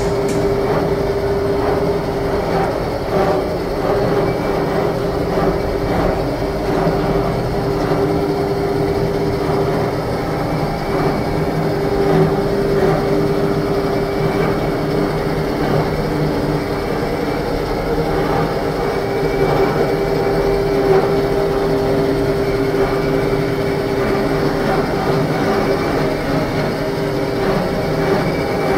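Machinery running steadily: continuous rumbling noise with a constant mid-pitched hum.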